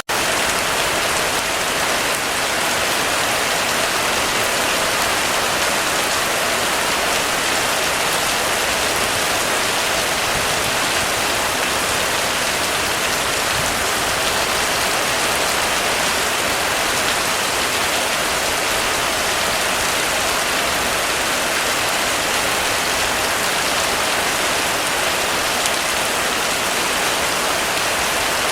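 Rain falling steadily on a roof: an even, unbroken hiss of drops with no thunder or other events.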